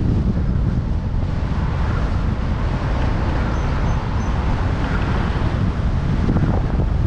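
Strong wind buffeting the microphone of a bike-mounted camera while cycling, a steady loud rumble.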